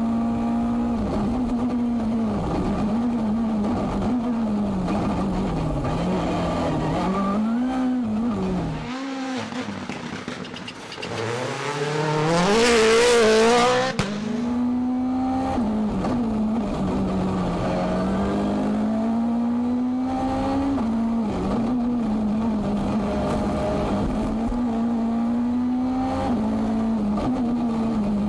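Hyundai i20 N Rally1 car's turbocharged four-cylinder engine at high revs, rising and falling through gear changes. The revs drop off briefly about nine seconds in, then the engine surges back with a loud hissing rush for about two seconds.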